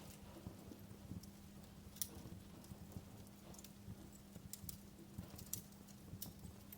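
Wood fire crackling in a fireplace: scattered sharp pops and snaps, a strong one about two seconds in and a quick run of them in the second half, over a soft low rumble and a faint steady hum.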